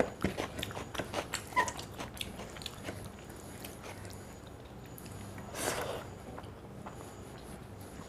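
A person eating curry and rice close to the microphone: a quick run of chewing clicks and mouth smacks through the first three seconds, then a single short, louder noisy smack or slurp just before six seconds in.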